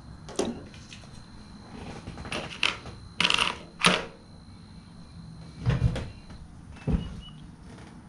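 Metal parts and tools being handled by hand: a string of irregular sharp clicks and clanks, about seven in all, with a longer rattle a little past three seconds in.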